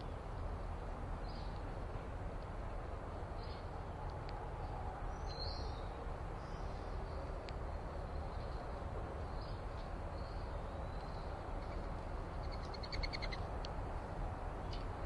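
Small backyard birds giving short, high chirps every second or two, with a quick trill of rapid notes near the end, over a steady low background rumble.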